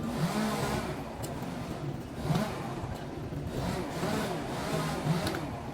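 Engine noise from nearby construction machinery: a steady rumble that swells and eases every second or so.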